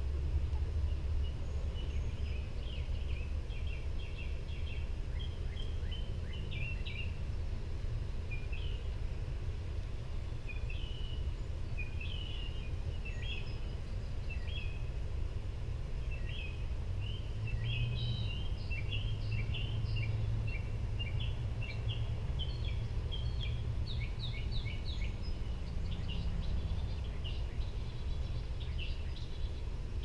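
Birds chirping in quick, high, irregular series, over a steady low rumble that grows louder for a few seconds in the middle.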